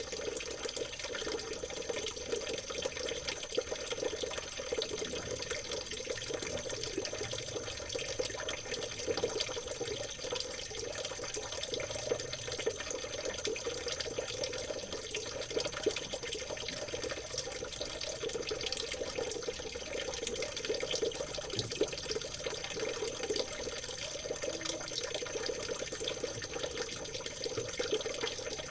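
Shallow stream water trickling and babbling steadily over stones.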